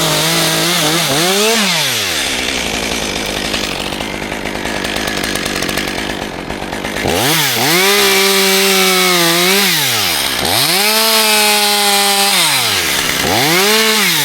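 Two-stroke chainsaw revving in repeated bursts, its pitch climbing, holding and falling back with each squeeze of the throttle, about four times. In the middle stretch the steady pitch gives way to a rougher, grittier sound as the chain works through wood.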